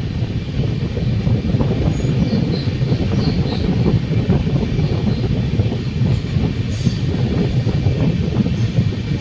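Passenger train running on the track: a steady rumble and rattle of the coach and wheels, with a few faint high wheel squeals about two to three seconds in.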